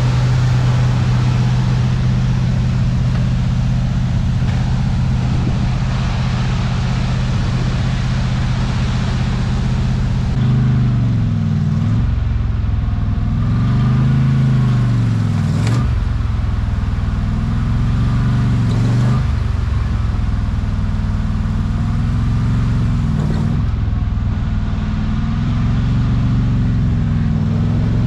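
Pickup truck engine running, holding a steady idle at first, then revved up and down repeatedly from about ten seconds in.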